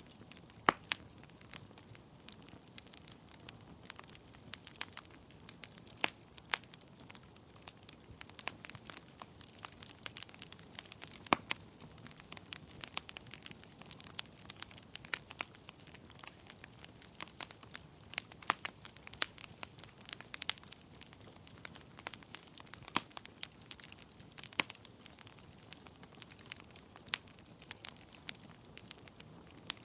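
Wood fire burning in a fireplace: logs crackling with many irregular sharp pops and snaps, a few of them loud, over a soft steady rush of the flames.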